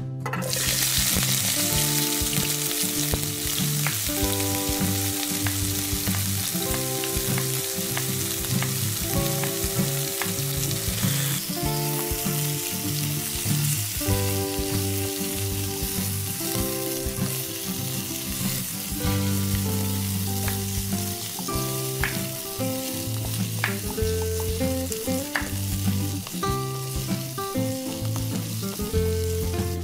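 Chicken pieces and potatoes sizzling in hot oil in a wok, starting suddenly as they go into the oil, and stirred with a wooden spoon. Background music plays underneath.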